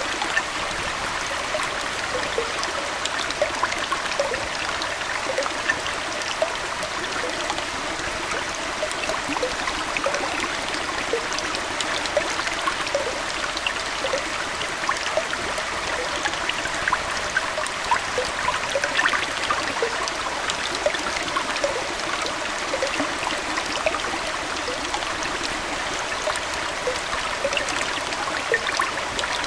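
Aquarium water trickling steadily, with many small plinks and bubbles scattered through an even rush of flowing water.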